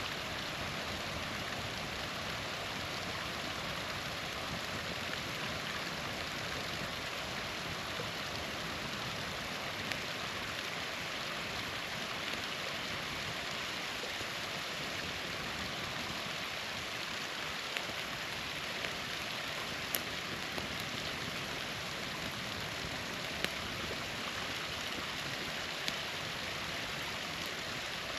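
Small waterfall splashing steadily, with a few sharp pops from a campfire, mostly in the second half.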